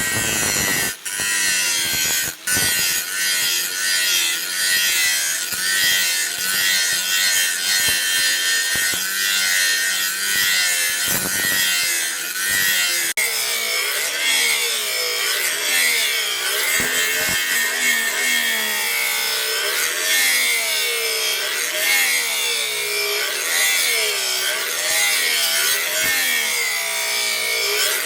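Steel from an old sprocket being worked with a cutting tool while shaping a machete blade: a continuous harsh rasping whose pitch wavers up and down about once a second.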